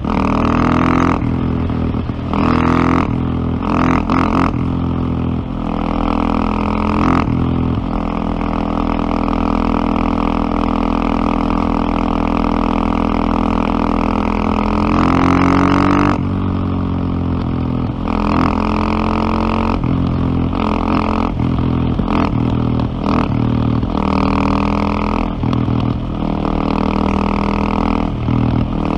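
KTM LC4 620 single-cylinder four-stroke motorcycle engine running under way. Its note dips briefly several times in the first few seconds, holds steady for about eight seconds, then rises and falls again with the throttle.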